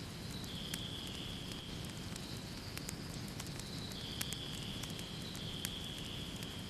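Wood fire crackling, with scattered sharp pops over a low steady rumble. A faint high whistling tone comes and goes every second or two.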